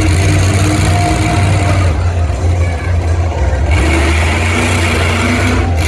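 Monster truck engine running loud with a deep low drone, its noise easing about two seconds in and surging again near four seconds as the throttle changes.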